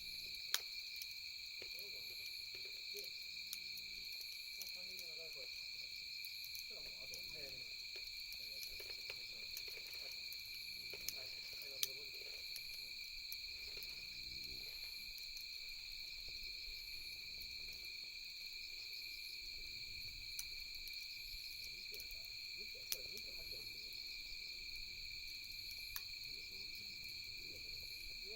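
A steady, high-pitched chorus of night insects trilling without a break, with a few sharp pops and crackles from a wood campfire.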